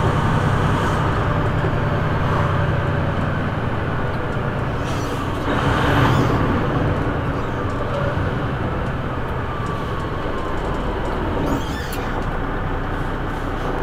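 Steady drone of a tractor-trailer's diesel engine and road noise heard from inside the cab while driving, with a brief louder swell about six seconds in.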